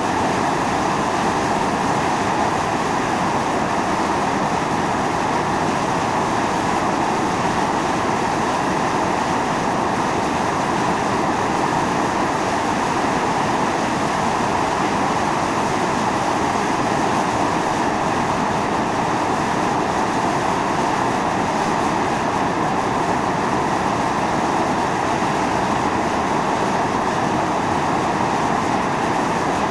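Steam and volcanic gas jetting continuously from a fumarole on Atosanupuri (Mt. Io): a steady rushing hiss that does not change.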